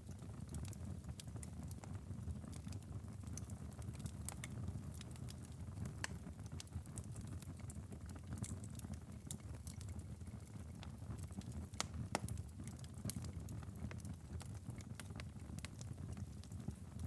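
Wood fire crackling in a fireplace: scattered snaps and pops over a low steady rumble of the flames, with a few sharper pops about six and twelve seconds in.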